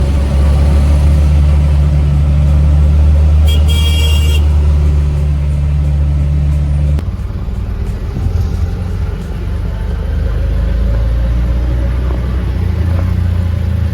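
Road traffic with a vehicle engine running as a steady low drone, whose note changes about seven seconds in. A vehicle horn honks once for about a second around four seconds in.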